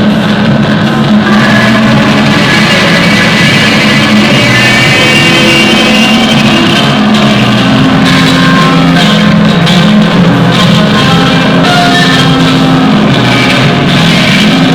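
Loud rock music with distorted electric guitar and drums.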